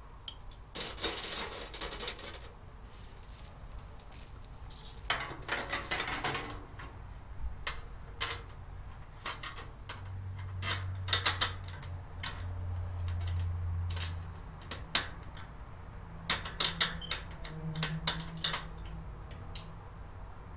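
Parts of a three-tier storage cart clinking, knocking and clicking together as it is assembled by hand. There are two longer rattling stretches in the first third, and scattered sharp knocks after them.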